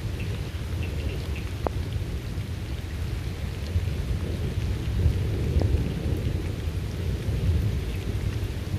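Steady rain with a continuous low rumble of thunder that swells a little toward the middle, and scattered drops ticking close by.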